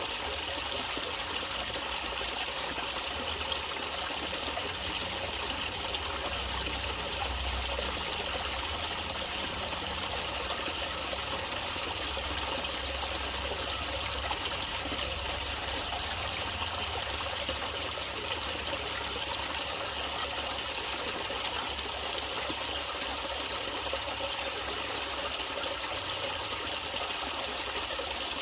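Natural running water, a stream trickling and flowing steadily over stones.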